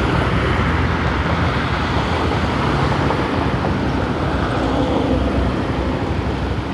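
Motorcycle being ridden on the road: a low, steady engine hum under an even rush of wind and road noise.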